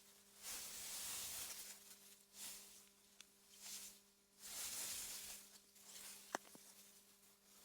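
Faint wind blowing through meadow grass in soft gusts that swell and fade every second or two. A low steady hum runs underneath. A single sharp tick comes about six seconds in, with a smaller one near the middle.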